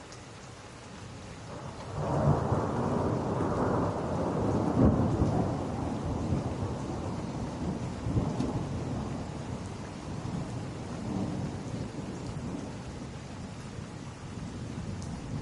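Steady rain with a long roll of thunder that breaks in suddenly about two seconds in, swells with heavier peaks a few seconds later, then slowly rumbles away.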